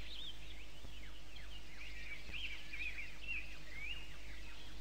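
Small birds chirping and twittering: many short high chirps and quick downward-sweeping whistles, over a faint steady low hum.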